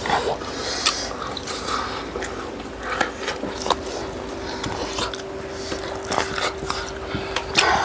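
Chewing and wet lip-smacking from people eating chicken and rice with their hands, a scatter of irregular mouth clicks and smacks, over a steady low hum.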